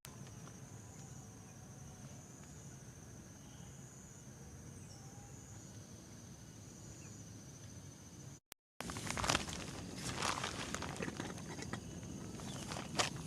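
Insects trilling steadily at a high pitch in a pulsing chorus. About two-thirds of the way through, after a brief cut to silence, louder irregular rustling and crackling take over.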